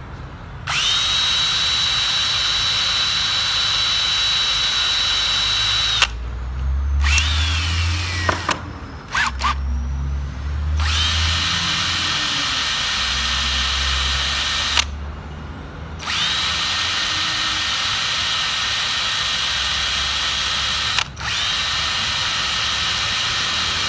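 Electric drill with a wire brush running at a steady high whine in several runs of a few seconds each, spinning down with a falling pitch once in between. It is scrubbing rust off a weed eater's ignition coil contacts.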